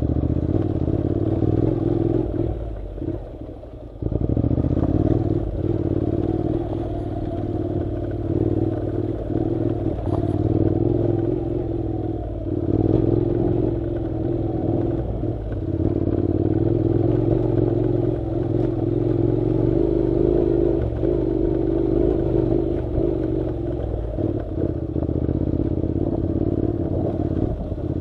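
Honda NC700's parallel-twin engine running steadily as the motorcycle rides a dirt road, with rattling over the rough surface. The engine eases off briefly about three seconds in, then picks up again.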